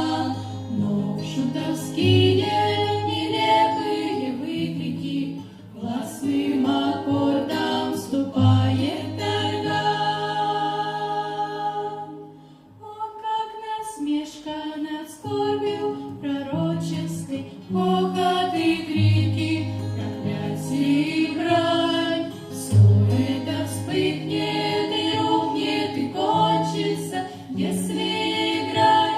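A vocal ensemble singing a song together over accompaniment with a low bass line that steps from note to note. The music drops briefly about twelve seconds in, between phrases, then carries on.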